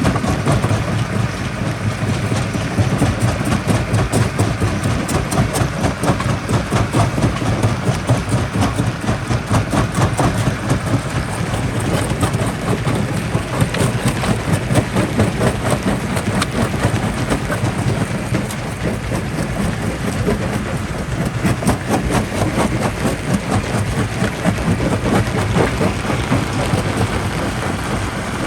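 Quarry jaw rock crusher running under load: a steady heavy machine drone with a continuous rapid clatter of rock knocking and cracking as it is crushed.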